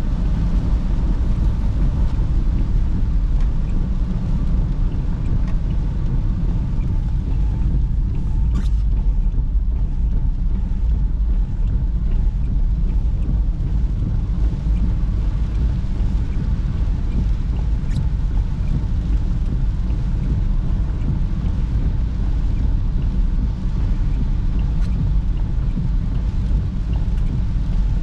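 Steady low rumble of a Perodua Bezza's engine and tyres heard from inside the cabin while driving, with a few faint ticks on top.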